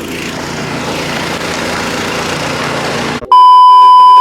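Snow blower engine running steadily. About three seconds in it is cut off abruptly by a loud, steady, high-pitched censor bleep lasting about a second.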